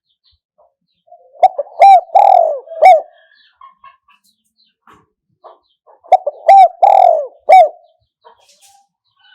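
Spotted dove cooing: two phrases of several notes each, the first about a second in and the second about six seconds in, each with a longer drawn-out note in the middle.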